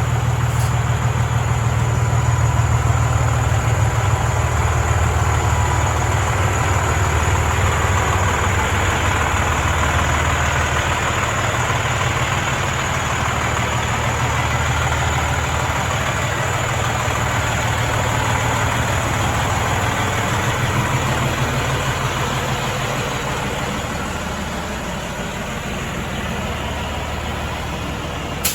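2007 Freightliner Columbia 120 semi truck's diesel engine idling steadily with a deep rumble, easing slightly in loudness near the end.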